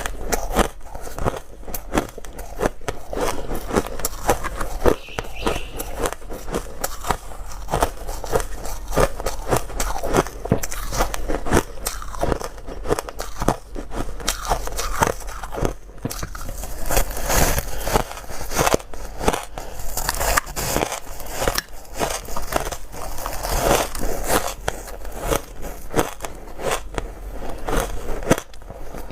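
Ice being bitten and chewed close to the microphone: a continuous run of dense, irregular crunching and crackling.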